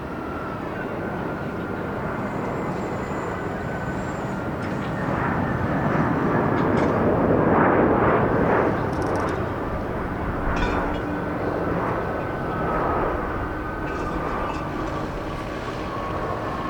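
Jet airliner passing low on its landing approach, the engine noise swelling to a peak about halfway through and then easing off, with a thin engine whine that drifts slowly lower in pitch.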